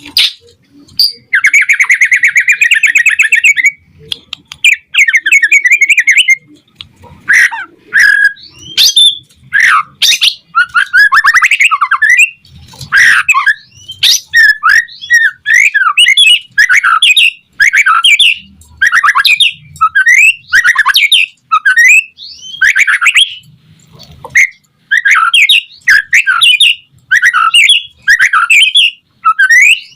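White-rumped shama (murai batu) singing loudly and continuously. It opens with a buzzy rattle lasting a couple of seconds, then runs into a rapid string of varied whistled phrases with rising and falling notes.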